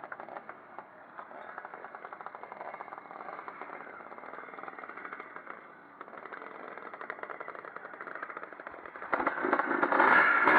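Pre-65 vintage motocross motorcycles racing, their engines running with a rapid firing rattle at varying revs. Much louder from about nine seconds in.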